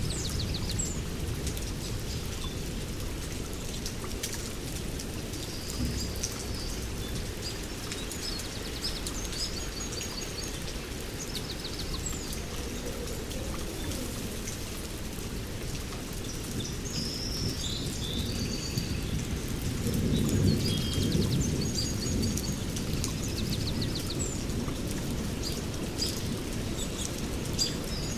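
Steady rainforest rain with birds calling in short repeated trills, and a low rumble of thunder that swells about two-thirds of the way through.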